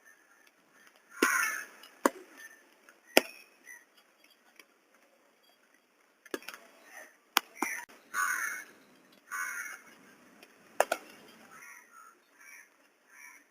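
Crows cawing repeatedly, with several single sharp knocks spaced a second or more apart.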